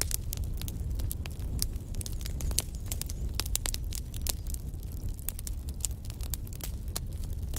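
Wood fire burning in a fireplace: a low steady rumble of flame with many sharp, irregular crackles and pops, several a second.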